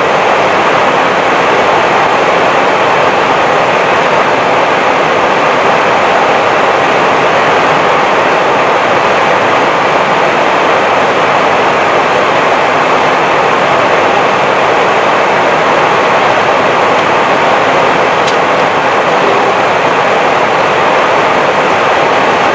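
Steady rushing noise on the flight deck of an Airbus A320 in flight, unchanging and without distinct events.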